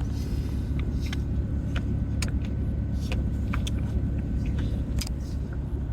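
Steady low hum of a car engine idling, heard from inside the cabin, with a few light clicks and taps scattered through it.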